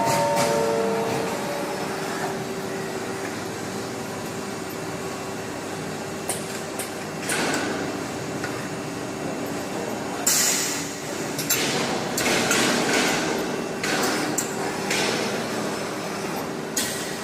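FBL-200 CNC lathe running: a steady machine whine under noisy bursts of cutting, with scattered clicks and knocks, the loudest burst about ten seconds in.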